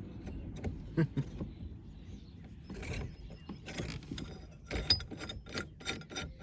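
Irregular sharp metallic clicks and taps of hand tools and a snap ring being worked on a car's steering column lock plate. The clicks come closer together from about five seconds in, one with a brief metallic ring.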